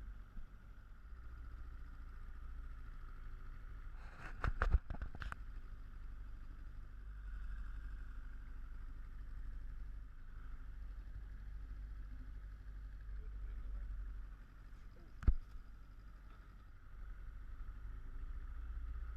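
Speedboat engine running steadily under a low rumble of wind and water. There is a brief cluster of clicks about four seconds in and a single sharp knock about fifteen seconds in.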